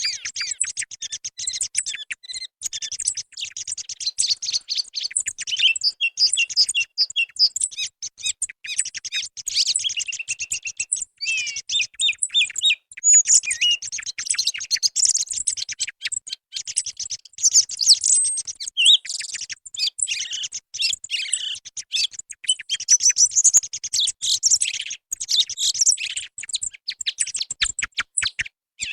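Song thrush singing: a dense, unbroken run of rapid, high, varied phrases with only short pauses, played as a lure call for hunting thrushes.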